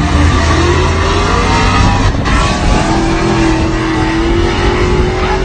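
Loud truck engine revving: its pitch climbs in the first second, then holds steady at high revs over a constant rumble.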